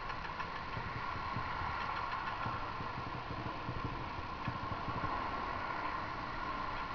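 Honda CG 150 Titan motorcycle's single-cylinder engine running steadily at low revs, with a light mechanical clatter.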